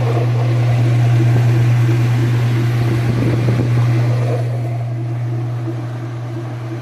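Sears-Kenmore 110 Series washing machine spinning and pumping out its water: a steady motor hum under a rushing wash of noise. The noise thins and gets quieter over the last couple of seconds.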